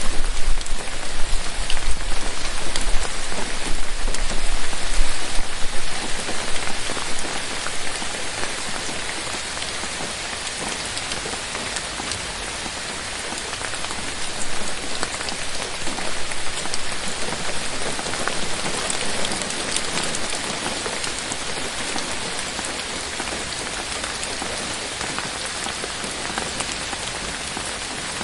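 Steady rain falling in a forest, a dense patter of drops on leaves. It is heavier for the first few seconds, then eases a little and stays steady.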